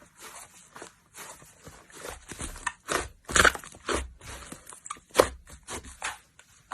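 Slime being squeezed and played with, making a quick run of short, irregular pops and crackles that grow louder about two seconds in.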